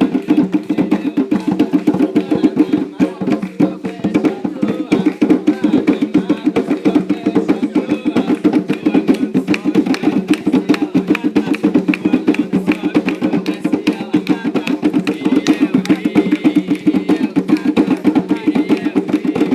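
Umbanda ritual hand drums, atabaques, beaten in a fast, steady rhythm of many strokes a second, with no singing over them.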